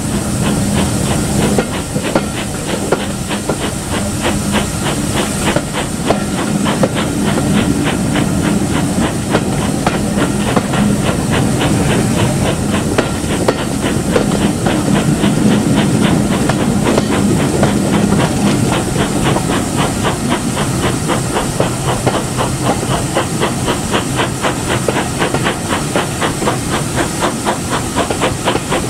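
Steam locomotive running, with a loud steady hiss of steam over a low rumble and a fast, even rhythm of beats, several a second, that sets in about two seconds in.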